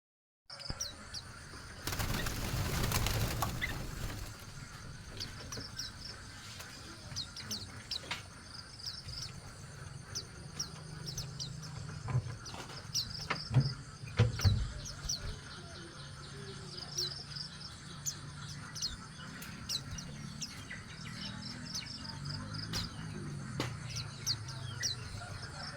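Small birds chirping in short repeated notes while feeding, with a burst of wing flapping about two seconds in and a few sharp knocks in the middle.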